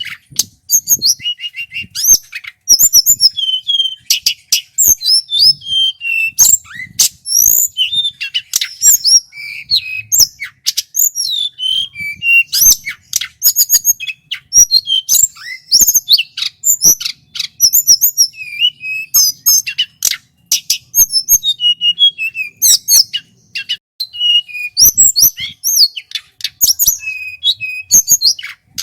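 Male tledekan gunung flycatcher singing loudly: a rapid, varied stream of high chirps, whistles and trills with only brief pauses.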